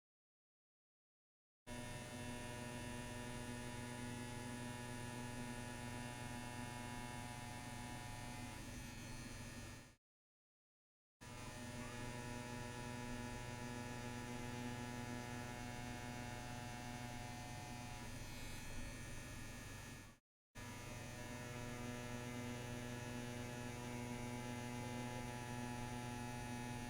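CNC WE tattoo machine with an 11 round liner needle running at a steady pitched buzz while lines are drawn. The buzz drops to dead silence three times: for the first second and a half, for about a second some 10 seconds in, and very briefly about 20 seconds in.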